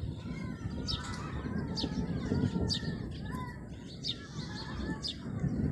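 Small birds chirping, short high calls repeated every second or so, over a steady low rumbling noise.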